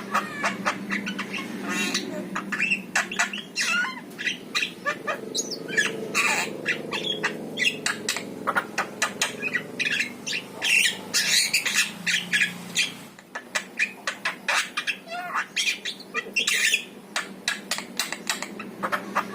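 Javan myna calling in a long, rapid string of harsh squawks, chattering notes and short chirps.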